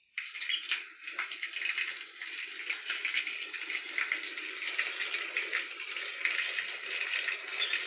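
Water pouring from a garden hose, a steady splashing hiss that starts abruptly.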